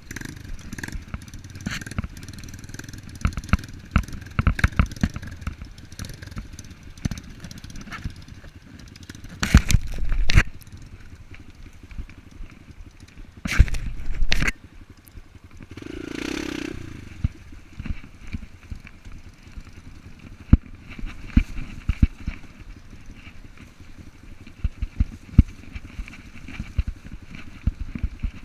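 Off-road enduro motorcycle running over rough ground, with many clattering knocks and two louder bursts of noise partway through, and a brief pitched sound a little after the middle.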